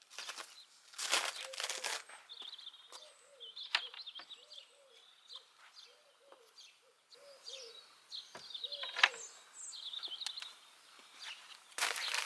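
Birds chirping and calling, several short notes after one another, with a few brief rustling sounds in between.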